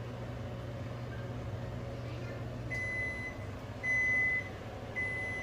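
Electronic kitchen appliance timer beeping three times: long, high beeps at one pitch in quick succession over a steady low hum.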